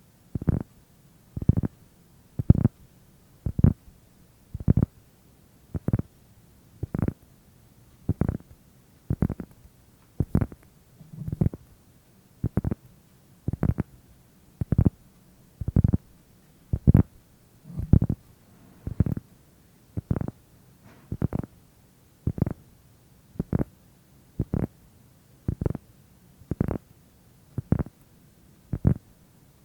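Muffled, low ASMR trigger sounds repeating in a slow, even rhythm, about one a second.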